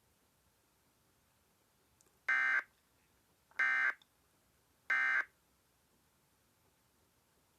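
Emergency Alert System end-of-message data signal: three short, buzzy digital bursts about a second and a quarter apart, marking the end of the alert.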